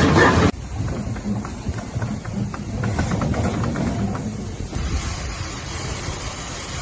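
Excavator engine running with a steady low rumble. A loud, noisy passage breaks off abruptly about half a second in, and a steady high hiss sets in suddenly about two-thirds of the way through.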